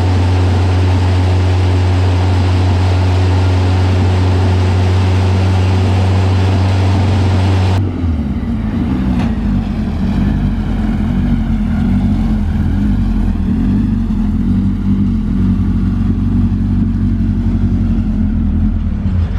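Engine of a turbocharged, Honda-swapped pro truck running steadily. About eight seconds in, its note changes abruptly to a lower, more uneven running.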